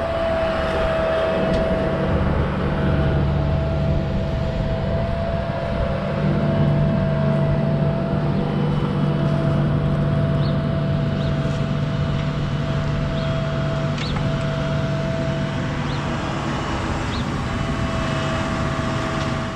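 Diesel engine of a compact excavator running steadily at work, with a steady thin whine above the engine drone and a few faint ticks.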